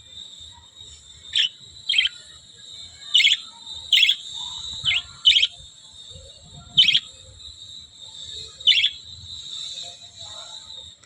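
Small pet parrots calling: about eight short, shrill, downward-sweeping calls at irregular intervals over a steady high-pitched background chatter.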